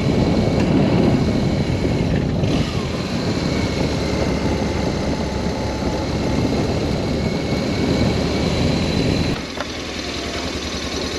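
BMW R1200S boxer-twin motorcycle under way, engine and rushing road noise together; about nine seconds in the rush drops away and a quieter, steady engine sound is left, as when the bike slows to idle.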